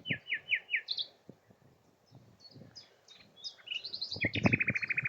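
Songbirds singing: four quick descending chirps at the start, scattered high, thin notes throughout, and a fast trill of about a dozen notes near the end. There are low thumps under the birdsong.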